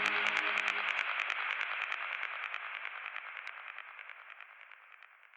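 Psytrance track ending: a hissing, noisy electronic texture with a rapid, even pulse, its bass gone after about a second, fading steadily out to silence.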